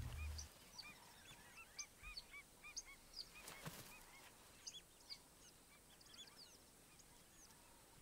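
Faint wild bird chirping: many short, high, arching chirps scattered irregularly, with a brief burst of noise about three and a half seconds in.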